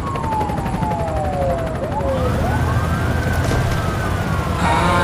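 A siren-like wail over a deep rumble: it falls slowly in pitch, then swings back up and holds. The song's music comes in near the end.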